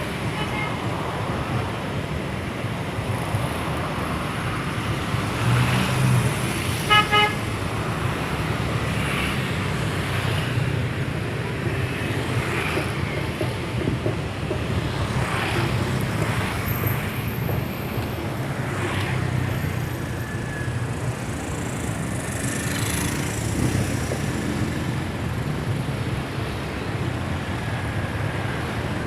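Steady road-traffic noise with vehicles passing, and a short car-horn toot about seven seconds in.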